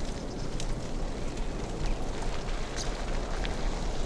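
Bicycle tyres rolling through mud on a dirt road: a steady crackling rumble with scattered small clicks.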